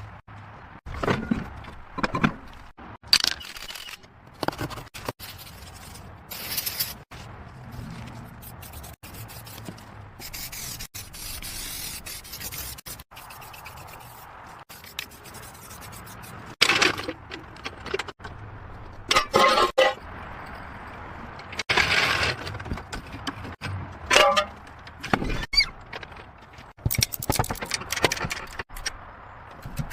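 Metal parts and hand tools scraping, squealing and clanking in short, irregular bursts as a car is taken apart, with a longer high hiss about ten to thirteen seconds in.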